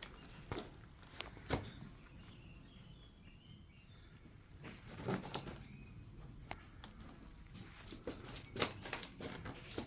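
Faint, scattered sharp clicks and knocks over a low outdoor hiss, clustered about five seconds in and again near the end.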